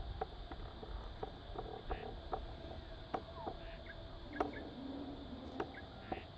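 Quiet outdoor ambience with scattered short clicks and a few faint animal calls, including a brief falling call about three and a half seconds in and a low hum about a second later.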